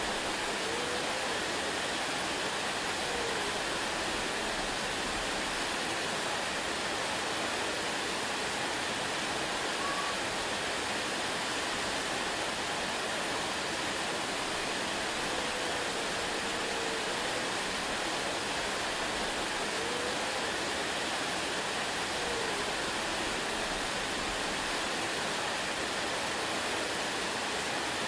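Waterfall: the steady, even rush of falling water, with a few faint, brief arching notes here and there.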